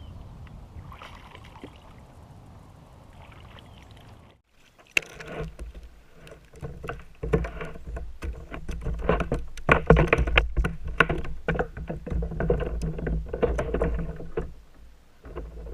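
Knocks and clatter on a sit-on-top fishing kayak, many irregular sharp strikes over a low rumble, starting after a brief dropout about four seconds in.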